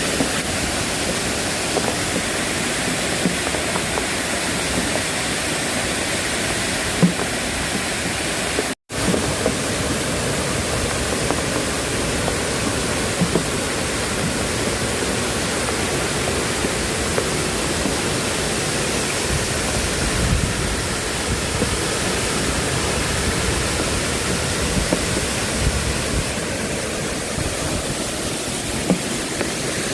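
Steady rushing water noise, even and without breaks in character, dropping out for an instant about nine seconds in.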